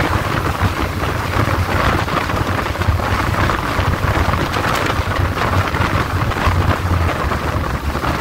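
Wind buffeting the microphone from the side of a moving passenger train, over the steady low rumble of the carriage running on the rails.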